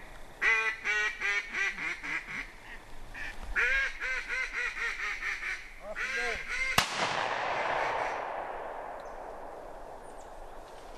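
Rapid duck quacking in two runs. About two-thirds of the way through comes a single shotgun shot, the loudest sound, whose report rolls away over a few seconds.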